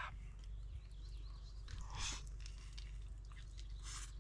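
A person chewing a taco, with two short crunchy bites: one about two seconds in and one near the end.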